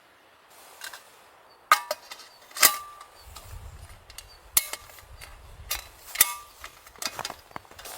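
A series of sharp, irregular knocks and clicks, the loudest two coming about two seconds in, some with a brief ringing tone.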